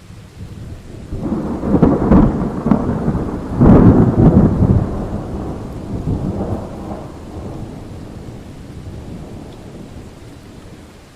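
A thunderclap over steady rain: the rumble builds for about two seconds, peaks in two heavy cracks, then rolls away slowly.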